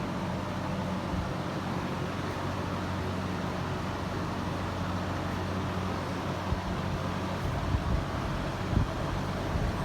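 Kymco AK550 maxi-scooter's parallel-twin engine idling with a steady low hum.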